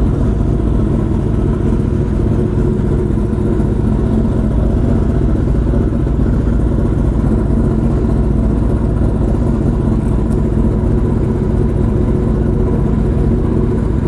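Kawasaki ZX-10R inline-four engine idling steadily and so loud, running through an open exhaust with the catalytic converter and stock exhaust removed.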